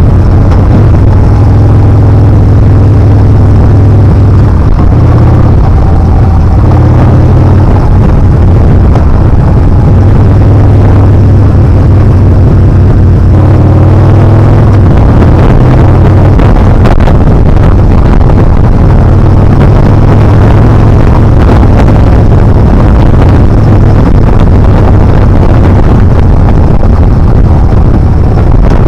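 Yamaha Bolt's air-cooled V-twin engine running under way on a motorcycle, with heavy wind rush over the microphone.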